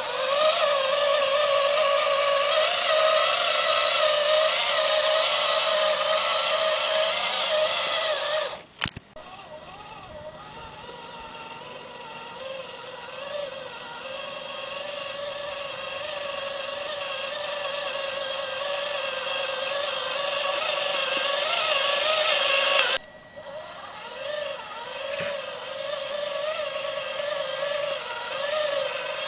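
Radio-controlled 1/16-scale tractor driving, a steady mechanical whine that wavers in pitch. It cuts out abruptly twice, about nine seconds in and again near the last quarter, then builds back up each time.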